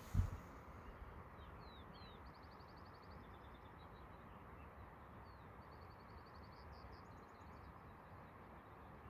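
Faint songbird calls: a few short chirps, then two quick high trills, over a steady background hiss. A brief low thump sounds right at the start.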